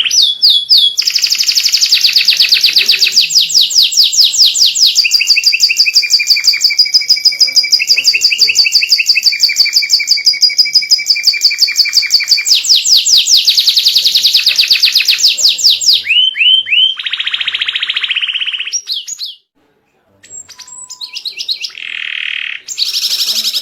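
White domestic canary singing a long, loud song of very fast trills, the notes repeating many times a second. The song breaks off briefly about three-quarters of the way through, then picks up again with shorter trilled phrases.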